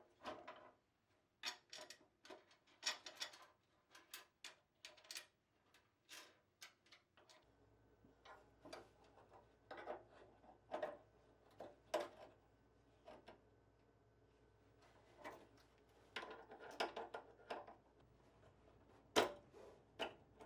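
Irregular clicks, taps and knocks of metal pedal-car parts and hand tools being handled and fitted during reassembly. A faint steady hum comes in about seven seconds in.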